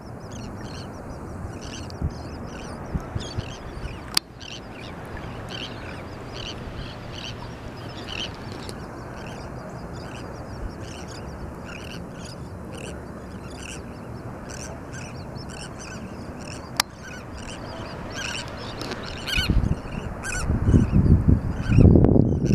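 A feeding flock of seabirds, gulls and terns, calling over a school of fish: many short, high calls overlapping throughout, over a steady low rush, with a louder low rumble near the end.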